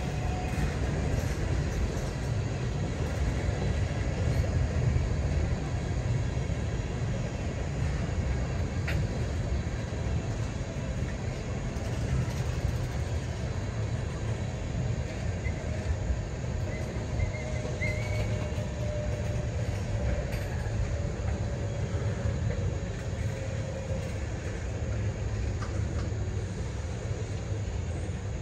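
Freight train of tank cars rolling past slowly: a steady low rumble of steel wheels on rail, with a faint wheel squeal drifting down in pitch in the second half and a few scattered clicks.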